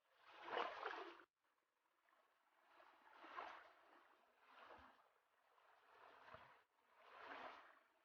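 Faint sloshing of shallow river water, coming in soft swishes roughly every second and a half, the first the loudest.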